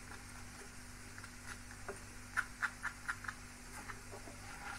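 Chicken koftas shallow-frying in oil in an aluminium pan, a faint sizzle with a quick run of small crackling ticks about halfway through, under a low steady hum.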